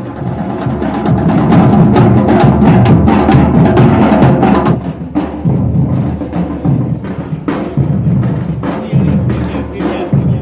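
Music driven by drums and percussion, with dense, irregular drum strokes over a low, steady bed.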